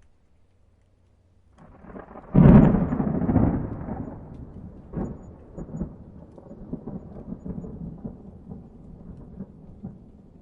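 Thunder. After a quiet start a rumble builds, then a loud crack comes about two seconds in, followed by a long rolling rumble with scattered crackles that slowly fades.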